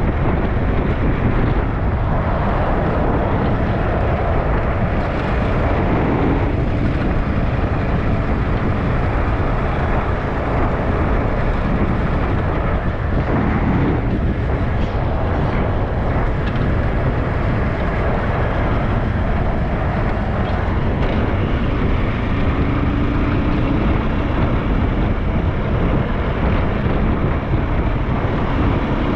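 SYM NH T 200 scooter running steadily on the move, its engine mixed with rumbling road and wind noise.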